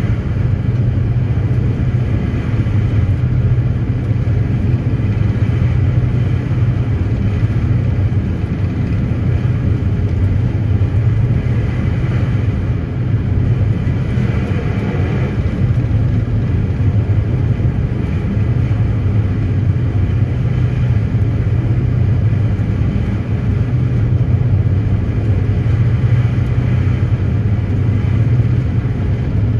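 A ferry's engines running underway with an unbroken low drone and a constant rush of noise over it.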